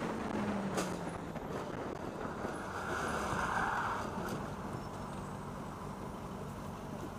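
Car engine and road noise with a steady low hum; the engine pitch falls in the first second. A few sharp clicks and a short hiss come about three seconds in.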